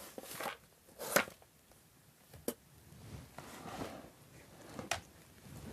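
A few scattered sharp clicks and rustles, the loudest a little after a second in: handling and movement noise picked up by a body-worn camera.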